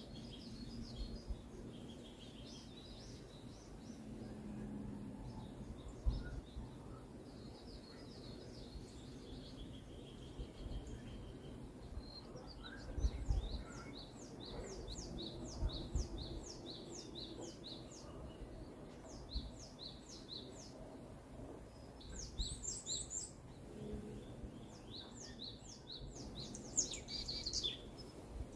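Forest songbirds singing, with several birds giving high chirps and fast trilled series of short repeated notes, over a steady low background hiss. A few soft low thumps come through.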